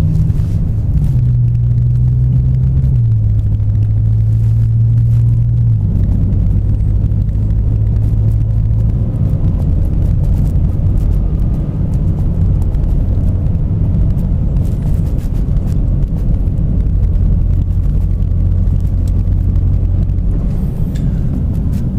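Interior drone of a Dinan-tuned BMW M5's engine under light throttle at low revs, its pitch stepping down three times in the first six seconds as the gearbox shifts up, then holding steady over low road rumble.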